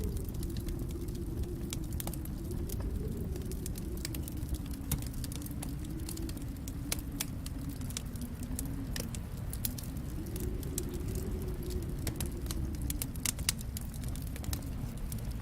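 Fire burning in a fireplace: a steady low rumble of the flames with frequent, irregular sharp crackles and pops.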